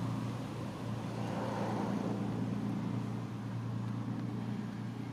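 Steady low hum of a running engine, even throughout, over a general background hiss.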